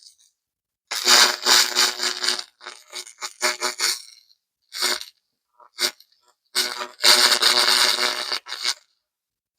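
300 W pulsed laser burning carbon deposits off an engine cylinder head: a harsh buzzing crackle in bursts of one to two seconds as the beam is switched on and off, with a couple of short snaps in between.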